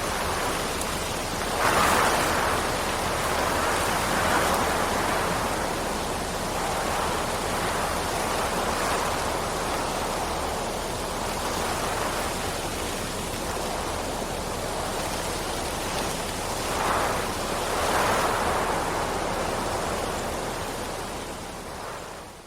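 Steady heavy rain as a continuous hiss, swelling louder about two seconds in and again near the end, then fading out quickly at the very end.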